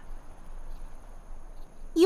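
Faint background ambience: a soft, even hiss with two thin, steady high-pitched tones.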